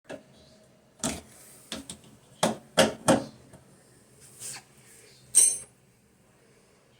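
A series of about eight irregular knocks and clatters of hard objects. The last one, near the end, rings briefly like metal.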